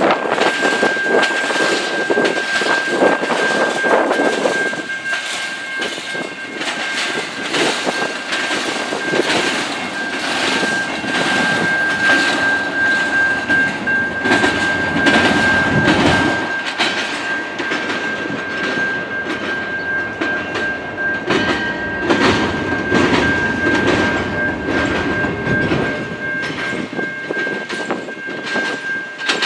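A train rolling past, its wheels clattering over the rail joints in a rapid, uneven series of clacks. A steady high-pitched tone runs underneath throughout.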